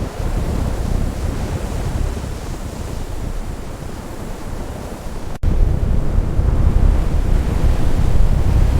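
Blizzard wind buffeting the microphone, a steady low rushing noise. It drops out abruptly about five seconds in and comes back louder.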